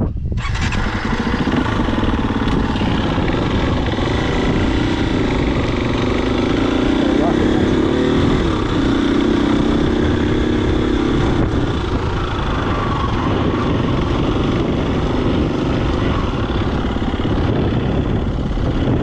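Husqvarna FE250 four-stroke single-cylinder dirt bike engine running under way, with wind rushing over the microphone. The engine note strengthens for several seconds in the middle.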